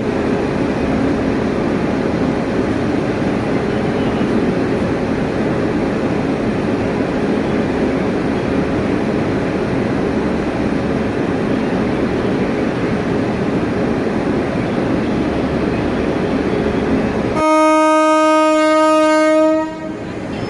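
Passenger train running with a steady rail rumble as it pulls out, then one horn blast of about two seconds from its WAP-7 electric locomotive near the end.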